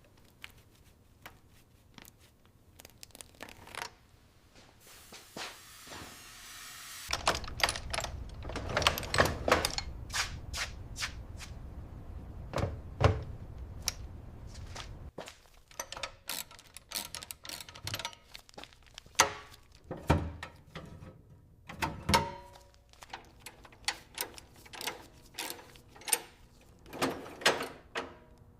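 Restoration work sounds: a series of clicks and knocks, a hiss building about five seconds in, then a low steady machine rumble for about eight seconds, followed by more scattered clicks and knocks.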